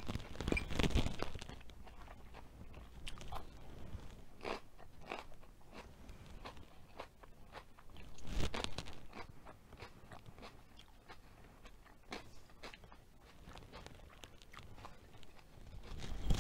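Close-up crunching and chewing of a person eating, biting into crisp raw yellow pepper strips. The loudest crunches come near the start and about eight seconds in, with quieter chewing clicks between.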